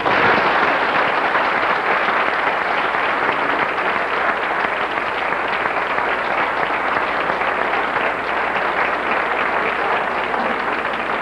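Audience applause breaking out suddenly as the a cappella song ends, then going on steadily.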